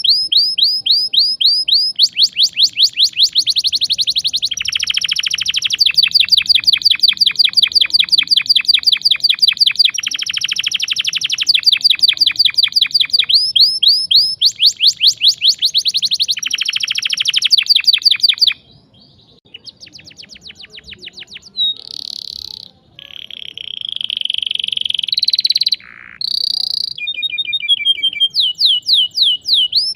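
Domestic canary singing a loud, sharp rolling song: long, fast trills of rapidly repeated high notes lasting several seconds each. About two-thirds of the way through there is a brief pause, then some drawn-out whistled and buzzy notes before the fast trills start again.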